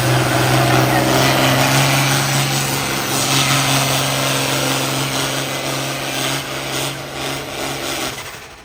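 Engine of a pulling truck or tractor running flat out at steady high revs, loud with a heavy rush of exhaust and drivetrain noise, under load down the track. It stops suddenly near the end.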